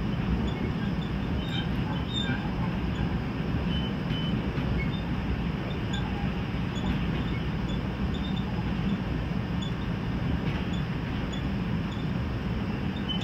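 Steady low running noise of trains on the rails, heard from inside a Sounder commuter coach as a BNSF coal train's hopper cars pass close alongside. Faint short high squeaks come here and there.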